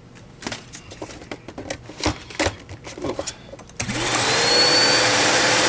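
Several clicks and knocks of handling, then about four seconds in the TriStar MG2 canister vacuum's motor switches on, spins up with a rising whine and settles into a steady loud run. It is a test run after the neck repair, with the hose not yet connected.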